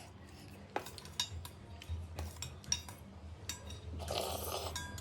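Utensils clinking and scraping against a bowl of thukpa while eating: scattered sharp clicks, with a short rushing, slurp-like noise about four seconds in.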